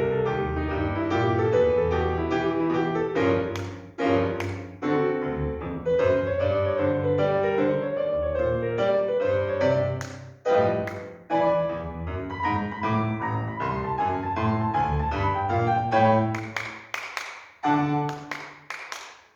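Solo piano playing a lively piece, with a rapid trill-like figure in the middle and a run of separate, sharply struck chords toward the end as the piece closes.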